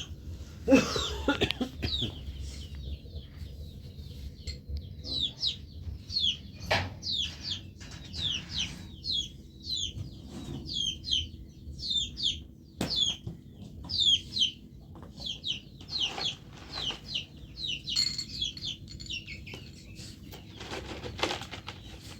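Chickens calling: a run of short, high, falling chirps, about one or two a second, with a few sharp knocks among them.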